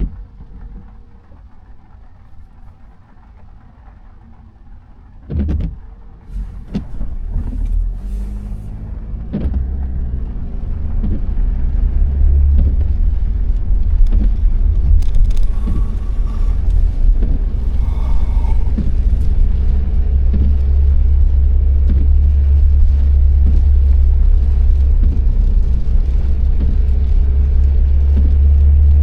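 Car on the road: after a thump about five seconds in, a low rumble builds over several seconds as the car gets up to speed, then settles into a steady, loud drone.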